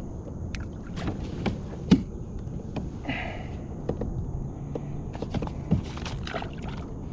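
Gear being handled in a Native Titan fishing kayak: scattered small knocks and clicks against the hull over a low rumble, with one sharper knock about two seconds in.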